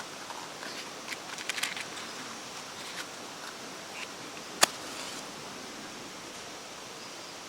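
Wood fire crackling: a few small snaps early on, then one sharp pop about four and a half seconds in, over a steady hiss.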